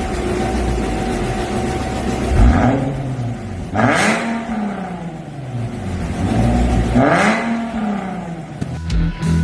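Infiniti engine through a custom dual variable (valved) exhaust with a tuned mid-pipe and rear mufflers, revved up and falling back twice, its pitch climbing then sinking toward idle.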